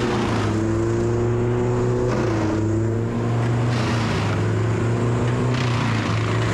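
A motor engine running steadily at a constant speed, its pitch shifting slightly a couple of times without a rev-up.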